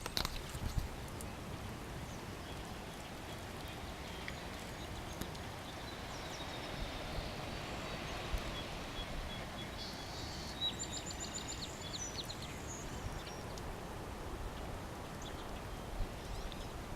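Steady outdoor background noise, with a bird chirping faintly a few times in the middle.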